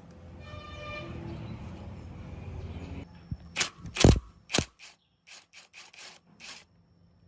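A steady noise for about three seconds, then a string of sharp knocks, the loudest about four seconds in, trailing off into lighter taps.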